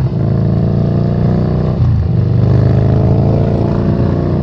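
Yamaha SCR950's air-cooled V-twin engine pulling under acceleration, its revs climbing steadily. The revs drop at an upshift right at the start and again about two seconds in, then climb once more.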